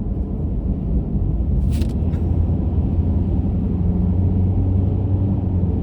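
Car driving on a winter road, a steady low rumble of engine and tyres with a faint steady hum.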